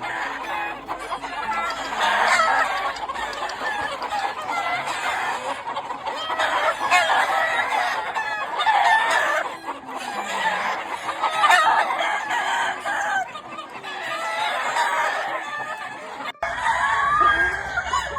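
Many gamefowl roosters crowing over one another, mixed with clucking, the calls overlapping continuously.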